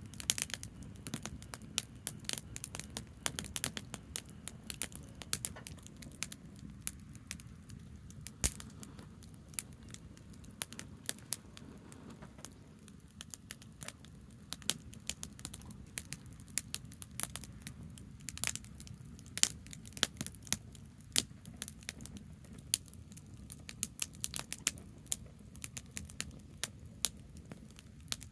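Branch campfire burning, crackling with irregular sharp pops of differing loudness over a steady low rumble.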